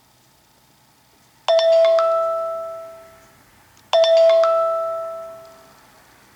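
An iOS 7 preset chime tone played from a 5th-generation iPod touch: a bell-like two-note chime sounded twice, about two and a half seconds apart, each ringing out and fading over about two seconds.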